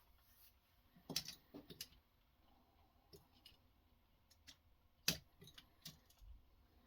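Scattered light clicks and knocks from handling a guided knife sharpening system and its stones: a quick cluster about a second in, a sharper single knock about five seconds in, then a few faint ticks, with near silence between.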